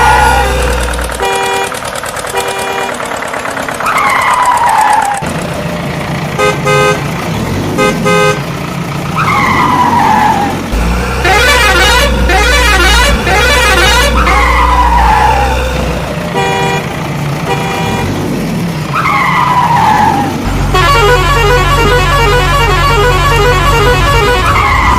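Cartoon vehicle sound effects: short horn toots and engine rumble, with a falling whistle-like sweep about every five seconds, repeating in a loop.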